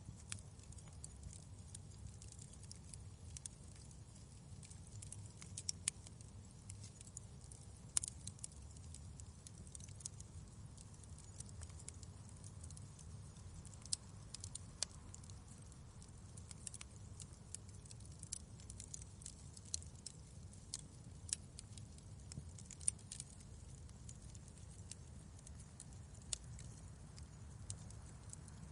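Wood fire in a fireplace crackling, with sharp pops at irregular intervals over a low steady rumble.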